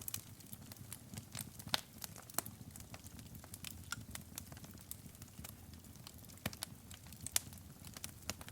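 Wood fire burning in a fireplace: irregular crackles and pops over a low steady rumble of the flames, with sharper pops about two seconds in and near the end.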